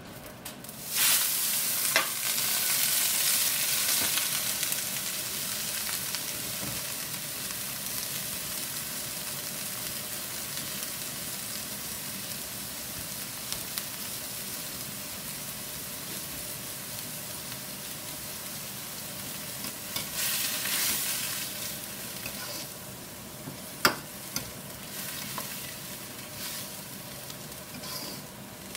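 Shredded cabbage landing in a hot wok about a second in with a loud rush of sizzling, which settles into a steady sizzle and hiss as it cooks. The sizzle swells again about 20 seconds in, and a steel wok ladle knocks sharply on the wok a few times.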